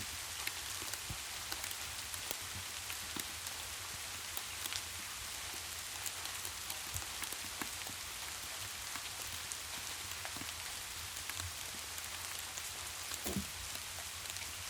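Steady rain falling, with scattered small crackles and pops from a fireplace fire mixed in; one louder pop comes near the end.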